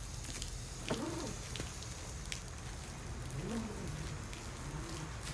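Water from a garden hose spattering steadily onto plants and soil. A dove coos low a few times over it.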